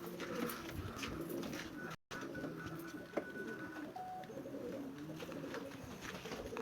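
Several domestic pigeons cooing over one another, with a few small sharp clicks; the sound cuts out for an instant about two seconds in.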